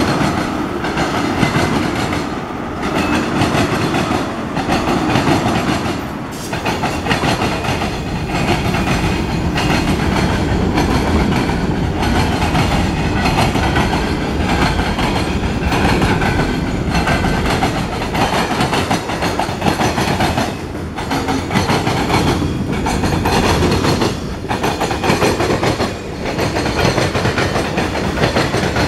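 Freight cars, tank cars and covered hoppers, rolling past close by: a steady loud rumble and clatter of steel wheels on the rails, with brief lulls every few seconds.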